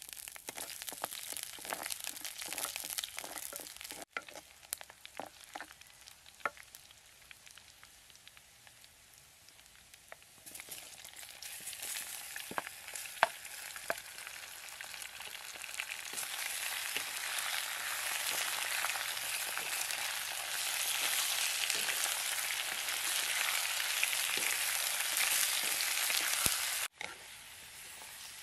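Food frying in a pot over a wood fire and stirred with a wooden spatula: light scattered crackling at first, then a steady sizzle that builds from about ten seconds in as pieces of snake meat go in and grows loud, cutting off suddenly near the end.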